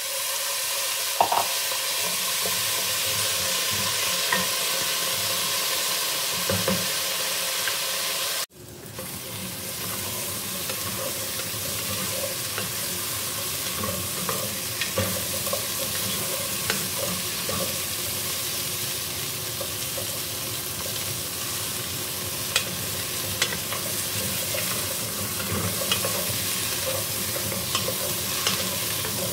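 Potato chunks frying in oil in a nonstick pot, a steady sizzle, stirred with a wooden spoon that gives small scraping knocks against the pot. The sound cuts out for an instant about eight seconds in, then the sizzle carries on a little quieter.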